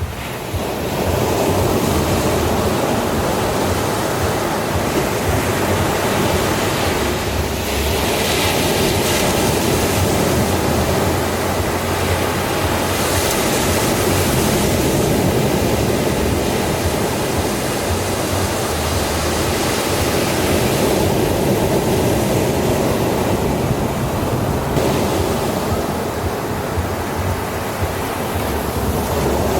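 Ocean surf: a continuous rush of waves, with the hiss swelling every several seconds as waves break and wash in.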